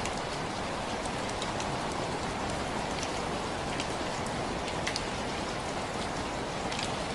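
Steady rain falling, an even hiss with scattered sharper drop hits on a surface.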